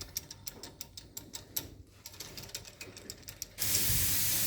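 Ratchet clicking rapidly and unevenly, typical of a ratchet wrench turning a bearing puller, then a loud hiss for about a second near the end.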